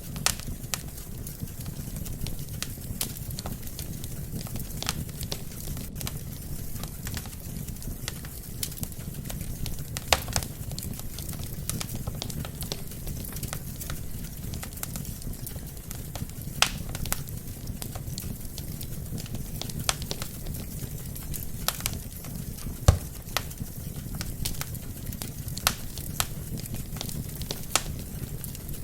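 Wood fire burning in a fireplace: a steady low rumble of flames with irregular sharp crackles and pops from the burning logs, one louder pop near the end.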